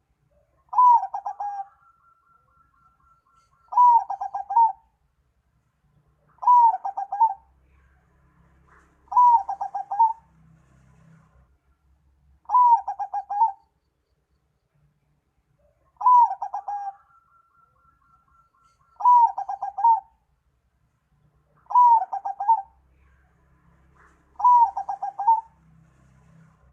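A bird's call for luring birds, repeated nine times about every three seconds. Each phrase is a rising note followed by a quick run of four or five pulsing notes.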